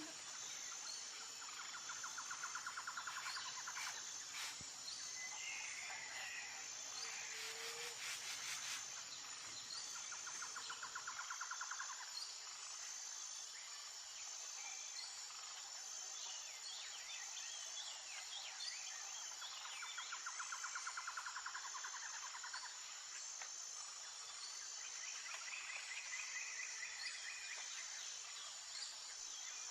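Nature ambience of songbirds chirping over a steady, high-pitched insect trill. A rapid buzzing trill comes three times, about eight seconds apart, and there are a few sharp clicks in the first nine seconds.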